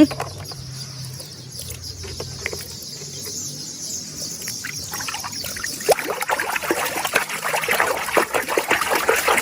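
Water trickling and splashing as a muddy toy animal is washed, getting louder and more spattery from about six seconds in.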